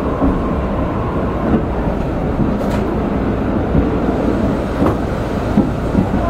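E531 series electric train running at speed, heard inside the passenger car: a steady rumble of wheels on the rails with a few sharp clicks.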